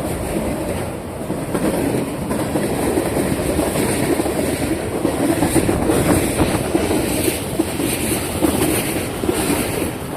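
Freight cars of a mixed freight train rolling past: a steady rumble of steel wheels on rail, with irregular clicking and clacking as the wheels cross the rail joints.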